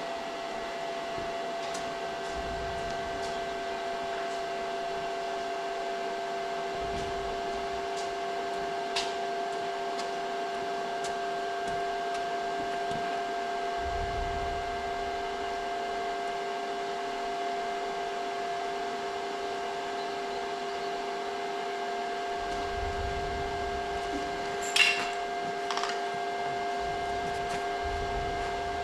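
A machine running steadily with a constant whine, with a couple of short sharp clicks, one about nine seconds in and one near the end.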